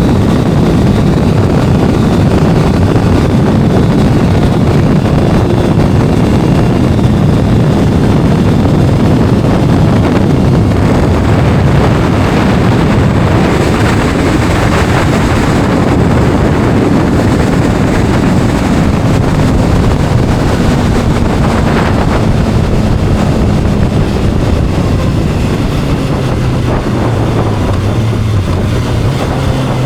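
Kawasaki inline-four sport motorcycle running at road speed, with heavy wind buffeting on the microphone; the engine's note comes through more clearly near the end.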